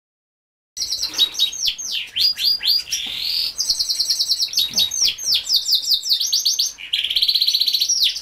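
Yorkshire canaries singing: fast rolling trills and quick runs of downward-sweeping notes, beginning abruptly just under a second in after a brief silence.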